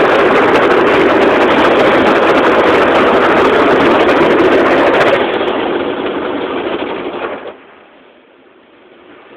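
Automatic car wash working over the car, heard from inside the cabin: a loud, steady rush like heavy rain on the body. It eases a little about five seconds in, then cuts away sharply at about seven and a half seconds, leaving a low hum that slowly builds again.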